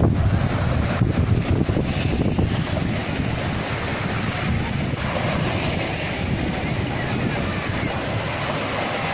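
Sea waves washing ashore, with wind buffeting the microphone; a louder surge in the first few seconds settles into a steady wash.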